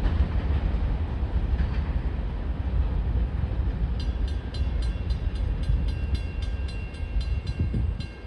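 Freight train cars rumbling past, mostly empty, in heavy rain. About halfway through a high, rapid ringing starts, about three to four strokes a second.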